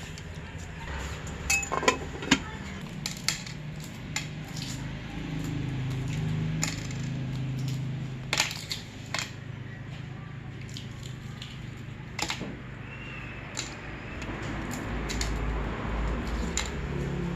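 Scattered clinks and knocks of cooking utensils against a pot and dishes, over a low steady hum.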